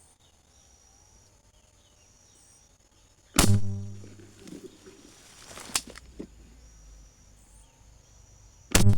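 Benjamin pump air rifle fired: a sharp crack about three and a half seconds in, followed by a low hum that fades over about a second, a smaller crack a couple of seconds later, and another loud crack near the end with a low hum that carries on. Faint birds or insects chirp behind.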